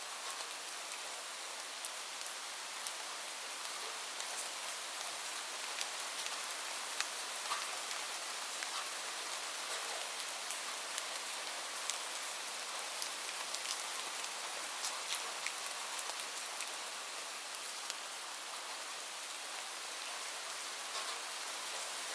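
Steady rain, a continuous hiss with many small drops pattering sharply on a surface throughout.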